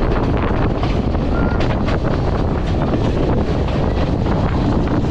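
Wind buffeting the microphone over the steady rumble and rattle of a moving passenger train, heard from outside the carriage as it runs along the line.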